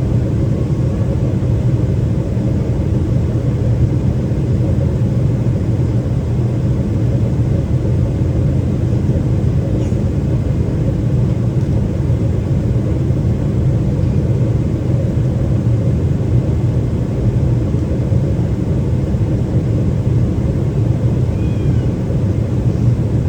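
Steady low rumble of engine and airflow noise inside the passenger cabin of a Boeing 777-300ER during its descent, with its GE90 engines and the rushing air over the fuselage blending into one even drone.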